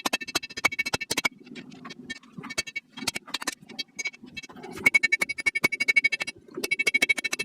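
Hand hammer striking a railroad spike on a steel anvil, each blow ringing with a high metallic tone. The blows come in quick runs of several strikes a second, with short pauses between runs.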